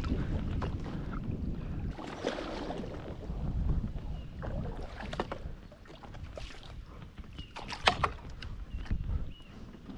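Wind rumbling on the microphone over water sloshing around a kayak, with a few sharp knocks against the Vibe Shearwater 125's hull, the loudest about eight seconds in.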